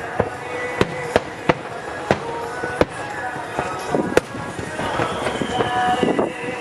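Aerial firework shells bursting overhead in a string of sharp, irregularly spaced bangs over a rumbling, crackling background. In the second half a thin high whistle slowly drops in pitch.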